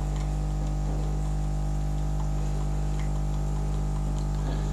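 Hotpoint Illy capsule coffee machine's pump humming steadily while it pushes water through the capsule, with a few faint ticks. The coffee is barely trickling out: the flow is restricted, which the owner puts down to the capsule.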